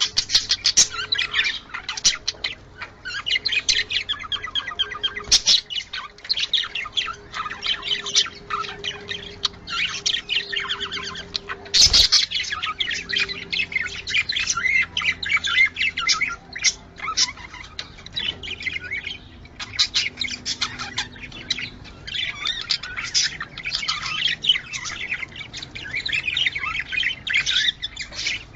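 Budgerigars chattering and warbling continuously in quick, busy chirps and squawks, the excited chatter used to bring budgies into breeding condition. A single sharp click sounds about halfway through.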